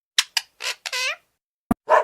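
An animal's short, high-pitched squeaky calls, five in quick succession within about a second, the last one sliding down in pitch. A sharp click follows, and a dog starts barking right at the end.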